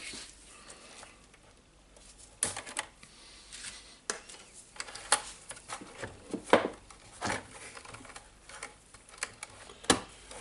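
Irregular sharp plastic clicks and snaps with light rustling, from hands and a tool working on the wiring and cable ties inside the opened DeWalt DC011 site radio.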